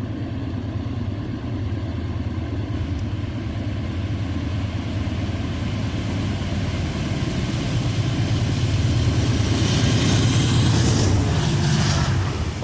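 Diesel locomotive engines running under load as a train passes beneath a bridge. The low, steady rumble slowly builds, is loudest near the end, then eases off suddenly.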